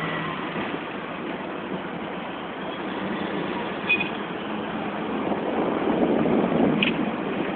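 Hong Kong tram running along the street with a steady rumble of the ride and traffic, getting a little louder in the second half. Two short high-pitched blips come about four seconds in and again near the end.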